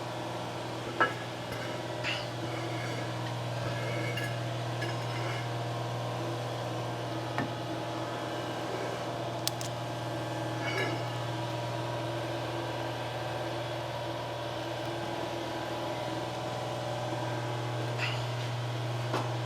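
A steady low hum throughout, with a few faint clicks and taps of metal tools, about one, two and nine and a half seconds in.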